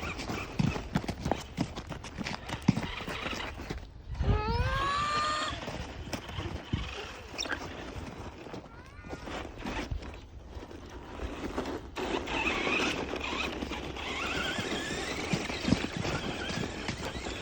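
Radio-controlled cars running through snow: a steady noisy churn with scattered knocks. About four seconds in, an electric motor whine rises sharply in pitch as a car speeds up.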